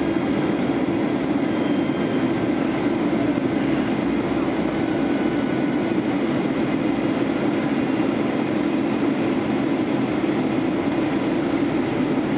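Steady cabin noise inside a Boeing 737-800 in flight: the even rush of engines and airflow, with a strong low hum running under it.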